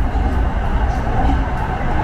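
SRT Red Line electric commuter train running: a steady low rumble of wheels and motors on the track.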